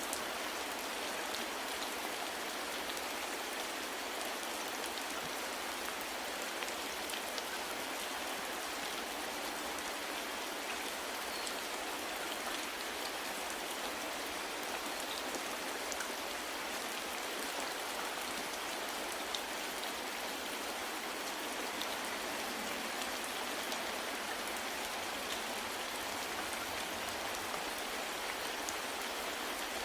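Steady soft rain falling, an even hiss with scattered small drop ticks.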